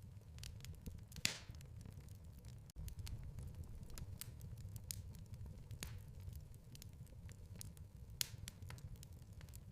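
Wood fire crackling in a fireplace: scattered sharp pops and snaps over a low, steady rumble of burning, with a louder pop about a second in and another near the end.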